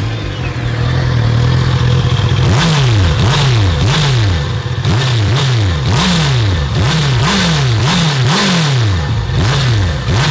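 Honda CB650R's inline-four engine through its stock exhaust, in neutral: it idles steadily for about two seconds, then is blipped again and again, each rev rising and dropping quickly, about ten times in a row.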